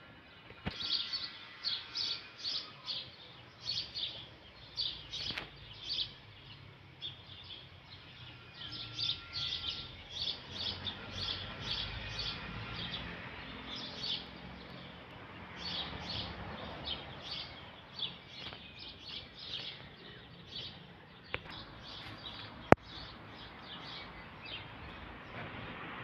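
Small birds chirping in quick runs of short, high chirps, several a second, broken by pauses. A single sharp click cuts through about three quarters of the way in.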